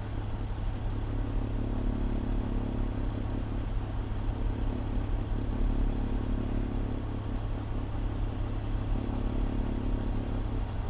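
Fire engine's diesel engine running steadily, a low even hum heard from inside the cab.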